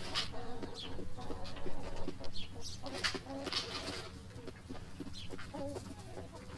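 A flock of chickens clucking, with many short overlapping low clucks and sharper, higher calls scattered throughout.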